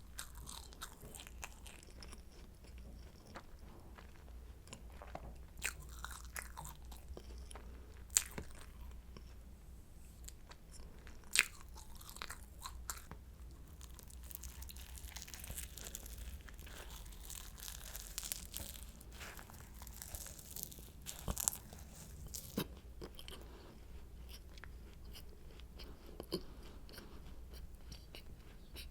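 Close-miked eating of a croissant: flaky pastry crackling and crunching in sharp irregular bites, with chewing in between.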